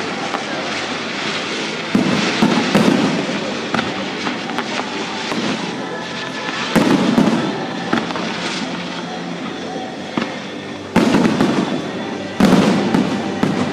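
Aerial fireworks display: shells bursting in a rapid barrage with constant crackling, and sharp loud bangs about two seconds in, near seven seconds, and twice near the end.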